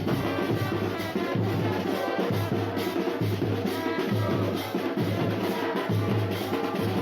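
A football supporters' drum band playing music with a steady, loud, deep drumbeat, about one beat a second, with lighter percussion and other parts over it.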